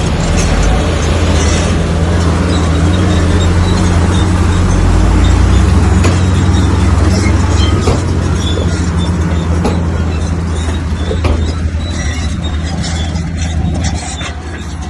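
Heavy diesel earthmoving machinery working, a steady low engine drone with a few sharp knocks and clanks over it. The level dips slightly near the end.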